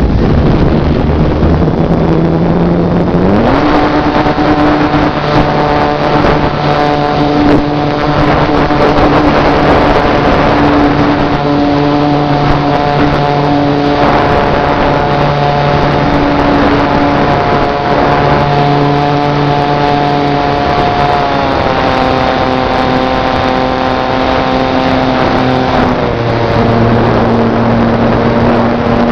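Electric brushless motor and propeller of a GWS Slow Stick model plane running in flight, a steady whine whose pitch jumps up about three seconds in as the throttle opens, then steps down twice near the end as it is throttled back. Wind noise rushes over the microphone underneath.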